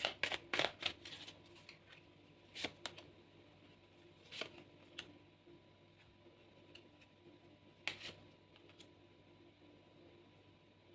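Tarot cards being handled: a quick flurry of shuffling at the start, then a few single card snaps and taps a second or more apart, with quiet between them.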